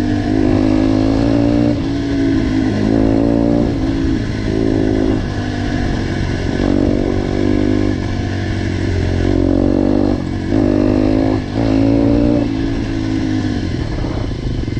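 Motorcycle fitted with a GPR aftermarket exhaust, its engine revving up and down repeatedly through the exhaust, with two brief drops a little after ten and eleven seconds in. Near the end it settles into a lower, steady pulsing.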